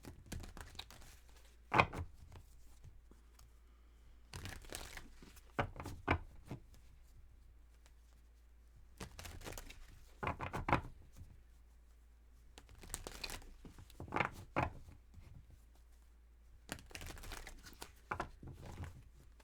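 Tarot cards being shuffled and handled: several short spells of rustling and flicking, with one sharp snap about two seconds in.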